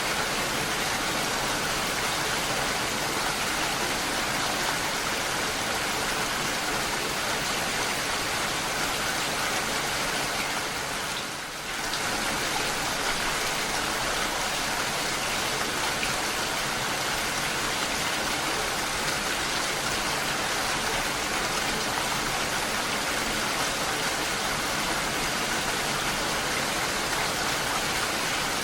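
Steady rain falling, an even dense hiss of drops, with a brief dip in level about eleven seconds in.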